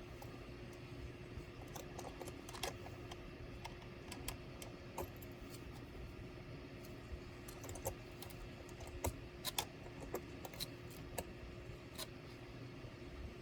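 Irregular small clicks and taps of laptop parts and tools being handled during disassembly, a few louder clicks about two-thirds of the way through, over a faint steady hum.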